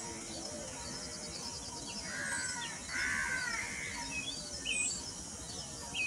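Wild birds chirping and calling over a steady outdoor hiss, with a fast ticking trill near the start and two louder arching calls about two and three seconds in.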